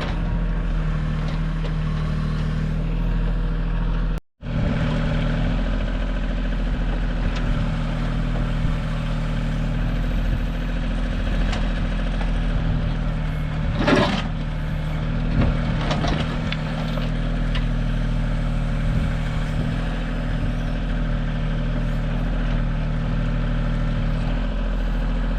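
Kioti compact tractor's diesel engine running steadily while the backhoe digs, with a couple of sharp knocks from the bucket about halfway through. The engine sound drops out for an instant a little after four seconds.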